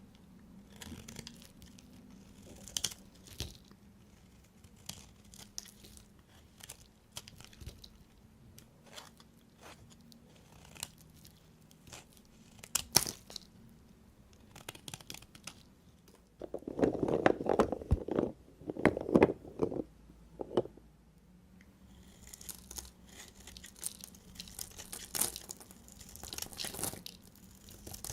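A knife cutting through bars of soap, with a series of crisp crunching and crackling cuts. A louder, denser stretch of crunching comes about two-thirds of the way through.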